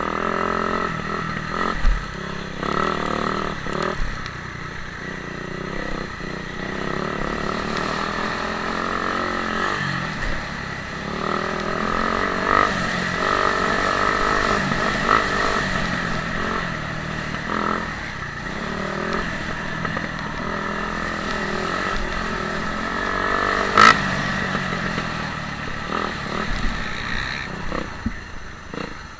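Motocross bike engine running hard, its pitch rising and falling again and again as it is ridden. A single sharp knock, the loudest moment, comes near the end.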